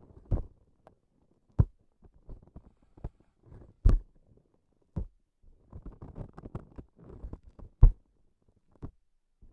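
Close-miked sticky transparent objects being pressed and pulled by hand: irregular sticky pops and crackles, with sharper taps about half a second, one and a half, four and eight seconds in, and a dense run of small crackles in the second half.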